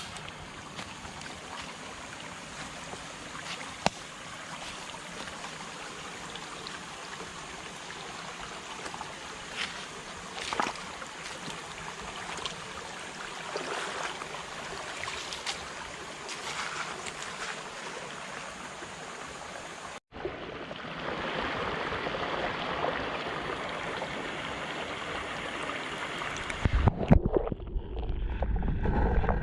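A rainforest stream's flowing water, an even rushing with a few small splashes and clicks. The sound changes abruptly about two-thirds of the way in. Near the end it turns muffled and low, with heavy rumbling and knocks.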